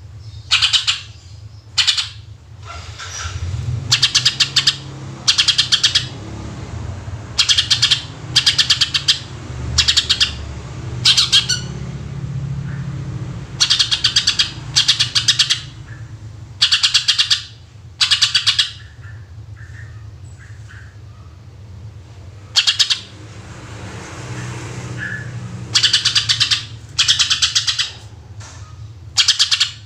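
Green leafbird (cucak ijo) singing in short, loud bursts of rapid-fire repeated notes, its 'tembakan' shot phrases, one after another with a pause of a few seconds near the two-thirds mark.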